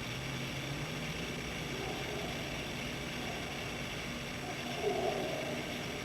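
Faint, distant barking: a few short calls over the steady hiss of a recording that has been turned up, the loudest about five seconds in. The barking goes on repeatedly, over and over.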